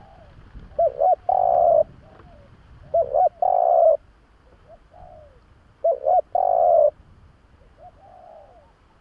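Spotted dove cooing: three phrases a couple of seconds apart, each two short notes followed by a longer drawn-out coo, with fainter coos between them.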